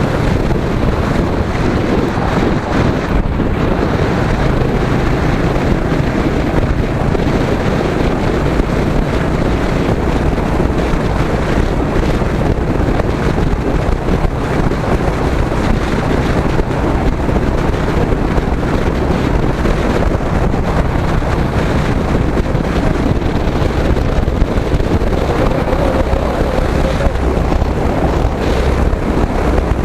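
Wind buffeting the microphone over a Royal Enfield Hunter 350's single-cylinder engine running at a steady cruise while riding.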